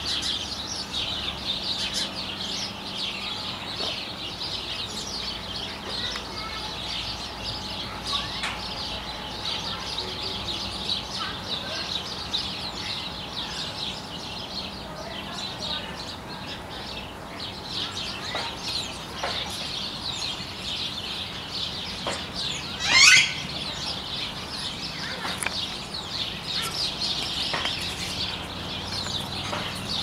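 Many small birds chirping continuously in a dense, high-pitched chatter. One loud, short sweeping call stands out about three-quarters of the way through.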